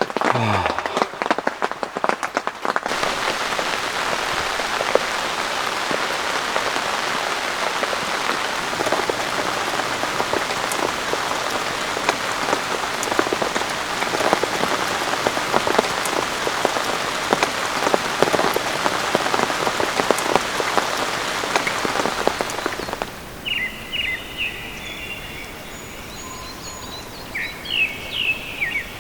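Heavy rain falling steadily, a dense hiss made up of many individual drop hits. About twenty-three seconds in it cuts to a much quieter stretch with a few short bird chirps.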